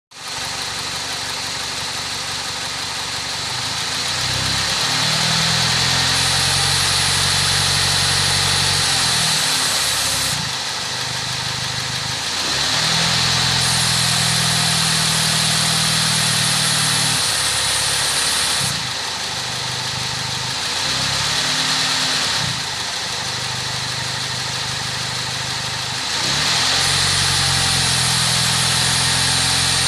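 Nissan Evalia engine idling and being raised to a higher, held speed about four times, dropping back to idle between. A steady high-pitched sound runs over the engine note: the abnormal noise the owner is trying to find.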